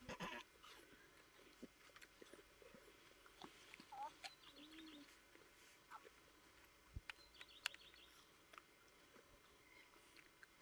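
Faint outdoor quiet with small birds chirping now and then and a few soft clicks.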